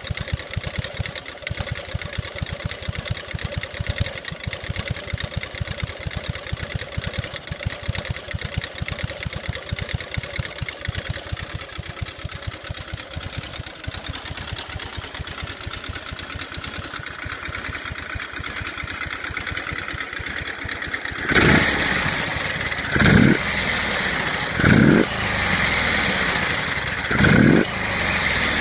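S&S Evolution-style V-twin motorcycle engine with a Mikuni HSR carburetor idling with a steady, even beat, then revved in four short throttle blips in the last seven seconds.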